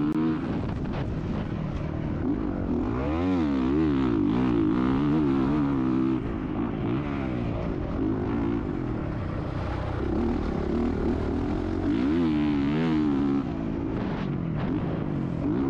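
Motocross bike engine running hard, its pitch rising and falling over and over as the throttle is opened and closed.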